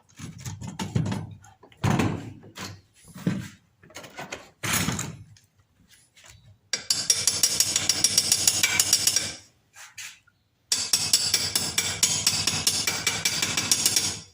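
Several metal clanks and knocks as steel pieces are handled and set in place. Then come two bursts of stick (electrode) arc welding, each a dense, steady crackle lasting about three seconds, tacking the steel angle-iron frame.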